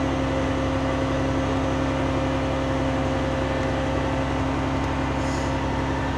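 Aerial ladder fire truck's engine and hydraulic system running steadily while the ladder is lowered into its bed: a constant low rumble with a steady hum on top.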